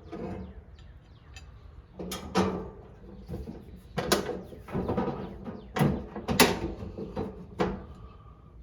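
Workshop handling sounds: a run of sharp clicks, knocks and rattles as tractor parts and tools are picked up, set down and worked on, with five or so louder knocks spread through and scraping between them.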